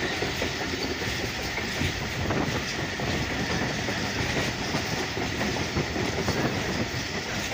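Passenger train coaches running at speed, heard from an open window: a steady rumble and clatter of wheels on the rails.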